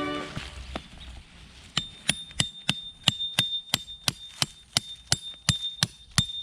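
Steady hammering on metal, about three strikes a second, each strike leaving a short high ring. It starts about two seconds in.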